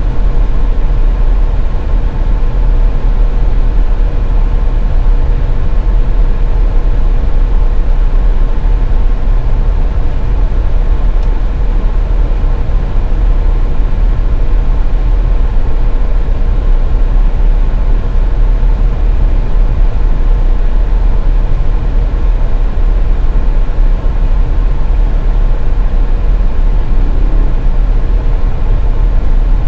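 Steady low rumble of a car driving at highway speed: road and engine noise with a faint steady hum, unchanging throughout.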